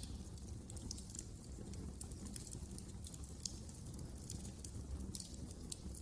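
Wood fire crackling, with frequent irregular sharp pops and snaps over a low steady rumble of flames.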